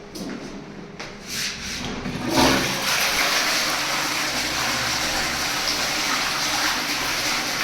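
Toilet being flushed: a few light knocks, then from about two seconds in a sudden, steady rush of water.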